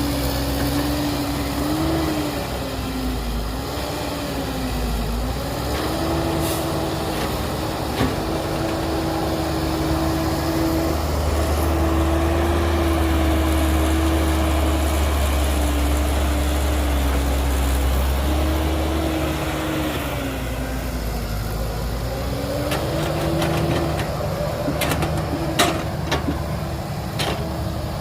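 Heavy diesel engine of earthmoving machinery running steadily, its pitch dipping and rising several times as the throttle changes. A few sharp knocks come near the end.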